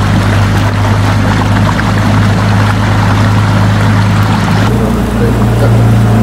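Motorboat engine running steadily at speed, with water rushing and splashing past the hull. The rushing water drops away about three-quarters of the way through while the engine hum carries on.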